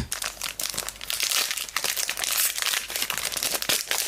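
Plastic trading-card pack wrapper crinkling and crackling as it is handled and torn open, with dense irregular crackles and a sharp click at the start; the packs are stiff and hard to open.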